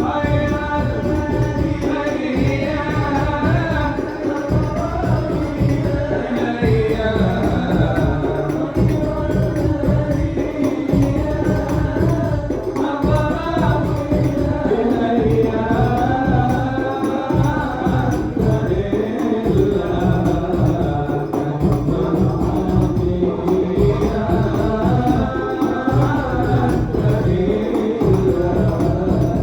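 A male voice singing Arabic sholawat, a devotional song in praise of the Prophet, in long, bending melodic lines over a steady beat of hand frame drums.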